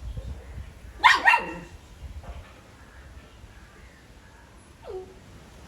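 Puppy barking twice in quick succession about a second in, each bark falling in pitch, then a single fainter, short falling yelp near the end.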